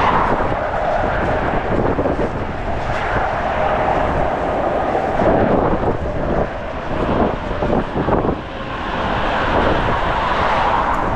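Strong gusting wind rushing and buffeting over the microphone, a loud, dense rush that eases slightly about two-thirds of the way through.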